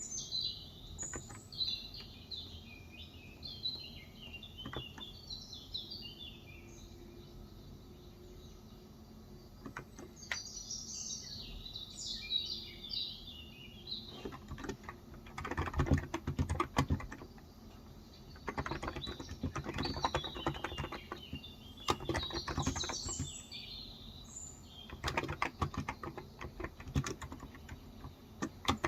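Typing on a Cox Endeavor electro-capacitive (non-contact) 35 g tenkeyless keyboard, in bursts of key presses that grow busier from about the middle on. Birds chirp and sing in the background, most in the first half and again near the end.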